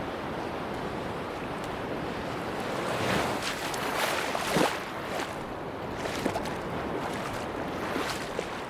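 Sea waves on a beach: a steady rush of surf, with a wave breaking and washing in about three to five seconds in.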